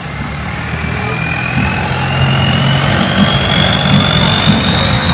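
Longtail boat engine passing on the canal, coming closer and growing steadily louder, with a thin whine that climbs in pitch over the engine's low running note.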